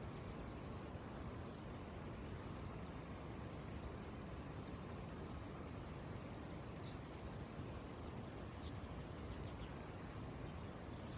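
Crickets chirring in a dense, steady, high-pitched trill, with one brief louder chirp about seven seconds in.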